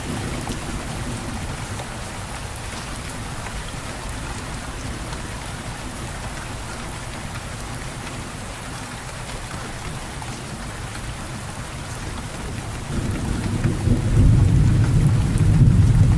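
Steady rain falling, with a low rumble of thunder that builds about three quarters of the way through and grows louder toward the end.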